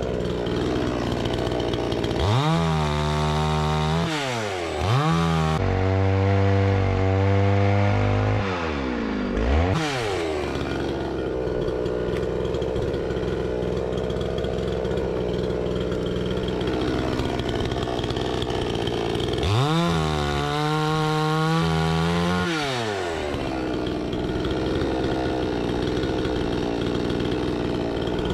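Two-stroke petrol chainsaw idling and revved up several times. From about six to nine and a half seconds the engine holds a lower, steady pitch under load, as when the freshly sharpened chain cuts through firewood.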